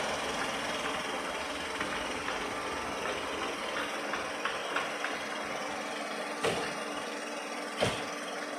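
Robot vacuum running across the floor with a steady motor hum and brush whir. Two sharp knocks, one about two-thirds of the way through and one near the end.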